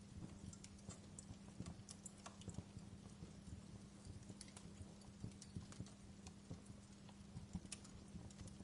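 Wood fire crackling in a fireplace: faint, irregular small pops and snaps, a few sharper ones, over a steady low hum.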